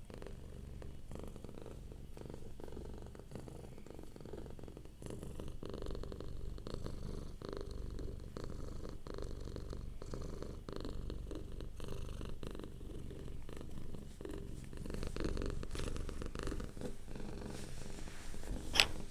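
Domestic cat purring steadily, a little louder from about five seconds in. Near the end there is a single sharp click.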